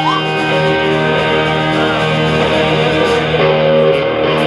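Live electric guitar playing held chords and notes through effects, the chords changing every second or so, with short high ticks near the end.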